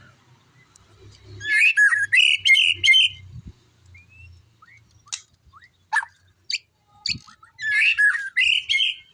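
White-rumped shama singing: two loud bursts of rapid, dense song phrases, about a second in and again near the end, with scattered short sharp notes and brief whistled glides between them.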